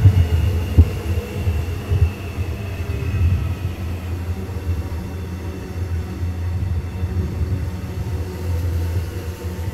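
Electric suburban train running past a station platform close by: a steady low rumble of wheels on rail, with a couple of sharp knocks about a second and two seconds in and a faint high whine that falls slowly over the first few seconds.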